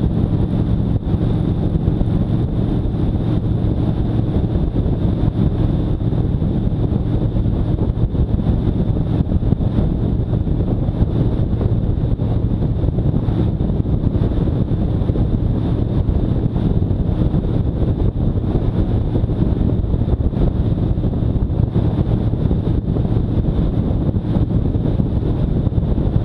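Motorcycle riding at a steady speed: the engine runs evenly under heavy wind noise buffeting the microphone.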